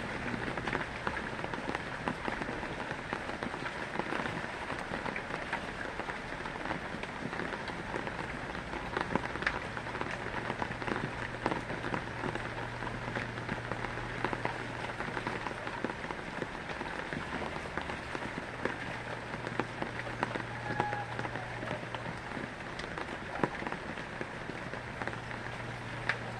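Heavy rain falling steadily, with scattered clicks of individual drops and a steady low hum underneath.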